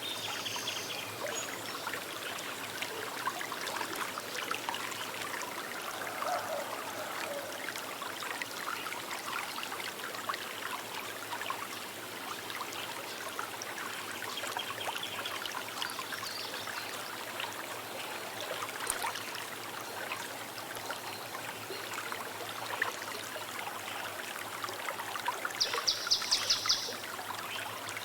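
Small river running and trickling steadily over stones. A brief, fast high-pitched bird trill comes near the end, with a few faint chirps earlier.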